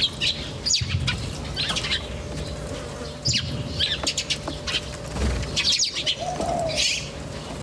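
Small birds chirping: clusters of short, sharply falling high chirps every second or so, with one lower, rounder call near the end.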